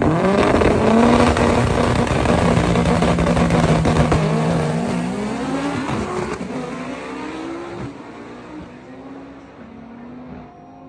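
Turbocharged race cars (a twin-turbo Audi R8 and a turbo all-wheel-drive Honda Civic) accelerating hard from the start. The engine note climbs and drops back at each upshift, and the sound fades as the cars pull away.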